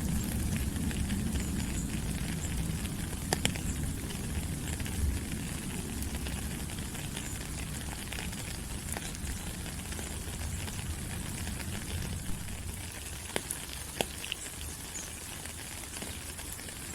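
Steady tropical rain falling on leaves: an even hiss with a handful of louder drops ticking sharply now and then. A low rumble underneath fades away over the first half.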